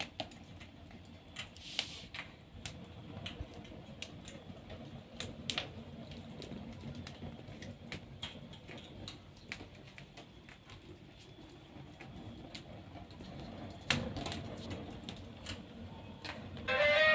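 Wood fire in a fireplace crackling, with irregular sharp pops over a soft steady rush and one louder snap about fourteen seconds in. Guitar music comes in just before the end.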